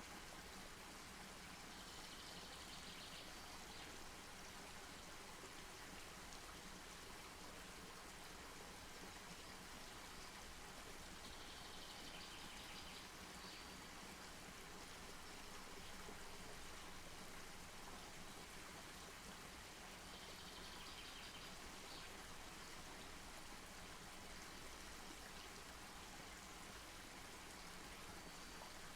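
Faint, steady outdoor hiss with few distinct crackles. A short high-pitched call sounds about every nine seconds, three times.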